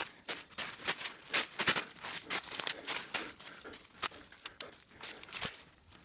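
Footsteps on a trail at a running pace, sharp scuffing steps about three a second.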